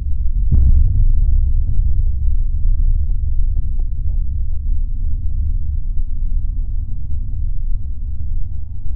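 Slowed-down fireworks audio: a deep, steady rumble with one dull bang about half a second in and faint low crackles throughout.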